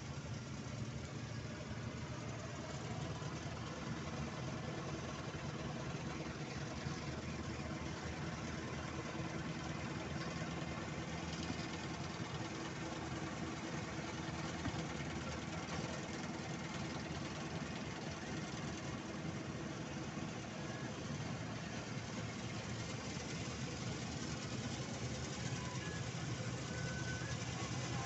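Diesel engine of farm machinery running steadily at an even speed.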